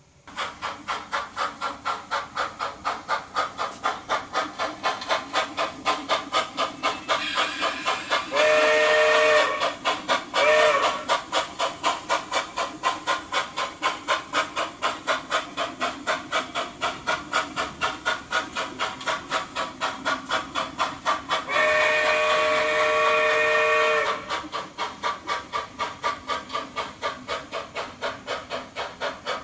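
Model steam locomotive sound unit chuffing steadily and rapidly as the train runs on the main line. The whistle blows a chord-like blast, then a short toot, and later a longer blast.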